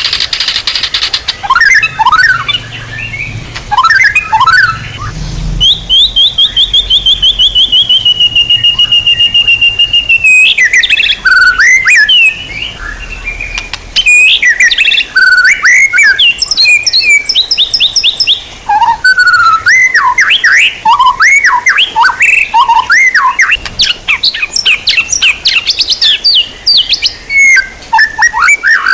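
Songbird singing loud whistled notes and chirps, with a long, fast, even trill from about six to ten seconds in that falls slightly in pitch, then a brief lull and a dense, varied run of whistles and chirps.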